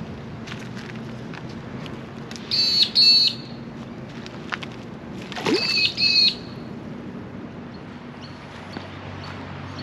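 Bird calling twice, about two and a half seconds apart, each call a quick pair of loud pitched notes, over a low steady hum.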